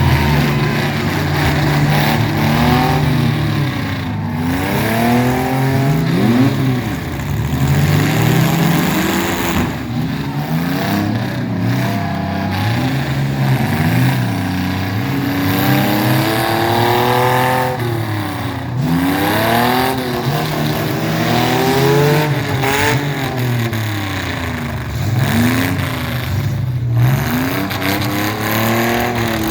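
Mini truck engines revving hard, several at once, their pitch climbing and dropping back again and again through gear changes and passes.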